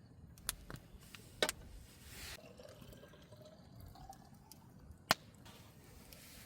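Liquid trickling or being poured, with a few sharp crackling pops; the loudest pop comes about five seconds in.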